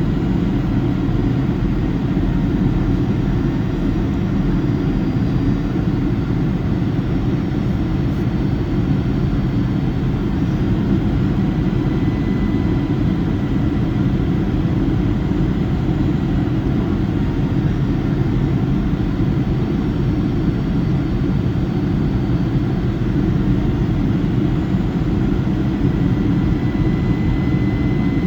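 Boeing 757-200's twin jet engines heard from inside the passenger cabin: a steady, dense low rumble of engine and airflow noise, with a faint high whine that fades in and out.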